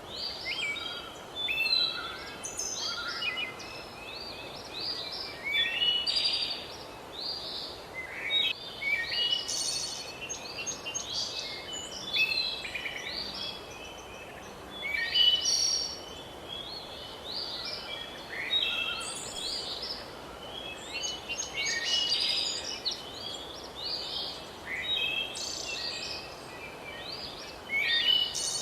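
Several birds chirping and singing, short calls and phrases overlapping one another over a faint steady hiss.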